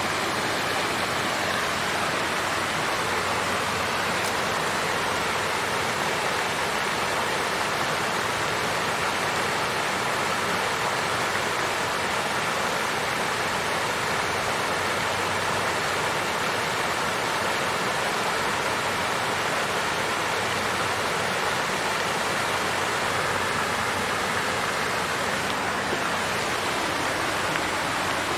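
Water fountain with water flowing and splashing steadily.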